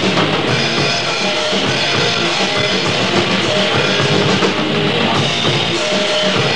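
Grindcore band recording: drum kit and distorted guitars playing loud and dense, without a break.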